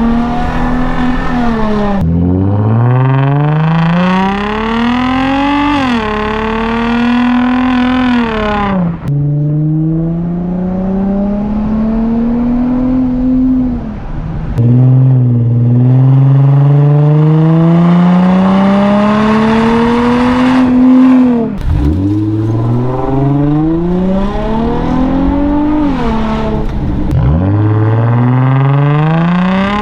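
Infiniti G35's V6 through a muffler-deleted exhaust, accelerating hard: the engine note climbs steadily, drops sharply at each upshift, then climbs again, about five times.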